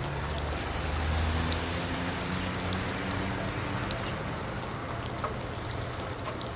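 Steady rain falling on hard surfaces, with scattered drops ticking close by and a low hum underneath that is strongest in the first second or so.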